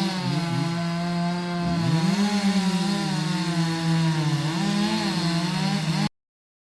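Petrol chainsaw running at high revs, its engine note dipping and recovering several times as it works through the wood. It cuts off abruptly near the end.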